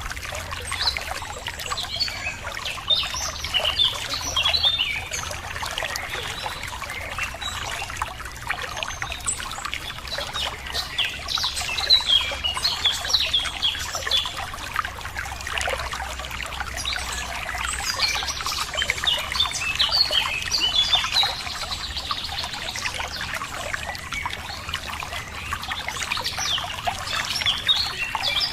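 Water trickling and pouring steadily, with many small birds chirping and singing over it throughout.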